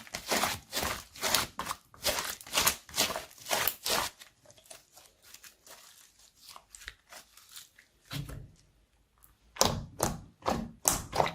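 Slime being squeezed and kneaded by hand, giving a run of sharp, crackly squelching pops, about two or three a second. It goes quieter for a few seconds in the middle, then loud pops come back near the end.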